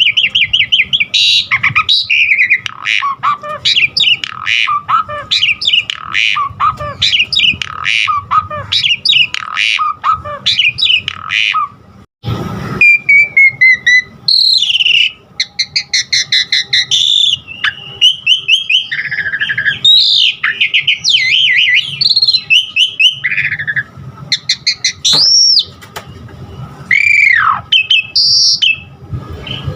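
Pied starling (jalak suren) singing a fast, varied song of chattering notes and whistles woven with mimicked phrases of other birds. There is a brief break with a click about twelve seconds in, and a few long whistles that rise and then fall near the end.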